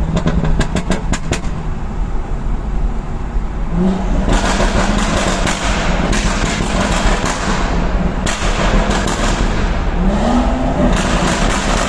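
Tuned car exhaust: a rapid run of sharp pops and crackles (burbles) in the first second and a half, then loud sustained revving with the engine pitch rising around four seconds in and again near the end.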